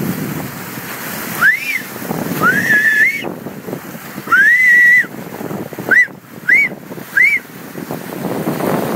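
Short-beaked common dolphins whistling: six clear whistles that sweep up and arch over, two longer ones in the first half and three short ones close together near the end. Wind on the microphone and water rushing past the hull run underneath.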